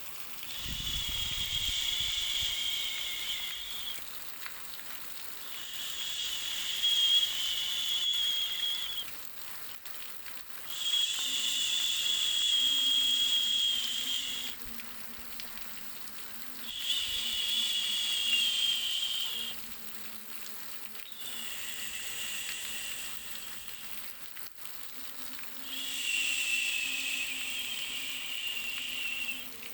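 A high, insect-like buzzing call, repeated about six times, each lasting three to four seconds with short pauses between, over a faint steady hiss.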